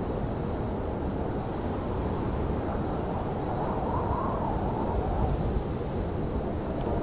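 Outdoor railyard ambience: a steady low rumble with a constant thin high whine over it, and a brief run of rapid high chirps about five seconds in.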